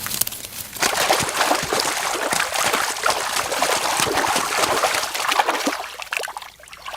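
Water splashing and trickling, with many small sharp splashes, starting about a second in and dying down near the end.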